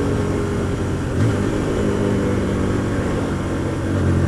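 Hyosung GT125R's 125 cc V-twin engine running under way, heard with wind noise. The engine note shifts about a second in and gets louder near the end.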